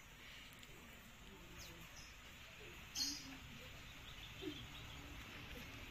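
Quiet outdoor background with a few short, faint bird chirps, the sharpest of them about three seconds in.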